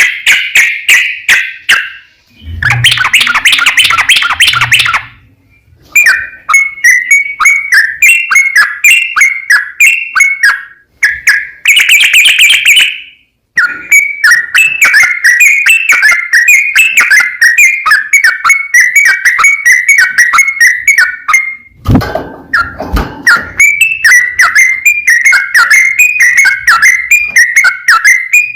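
Yellow-vented bulbul (trucukan) singing long, loud runs of rapid chirping notes with hardly a pause, the long 'ropel' song used as a lure to set other bulbuls singing. The song breaks off briefly twice, and in two short stretches a thicker, lower sound lies under the notes.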